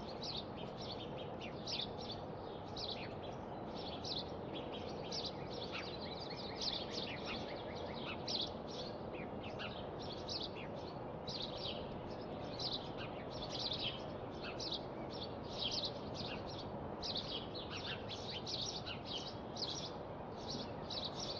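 Birds chirping, many short quick calls several times a second without a break, over a steady background hiss.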